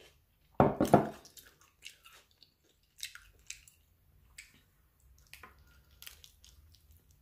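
Close-up mouth sounds of a person eating a soft taco: chewing, wet smacks and clicks, with a bite into the taco near the end. About half a second in there is a brief, louder thump.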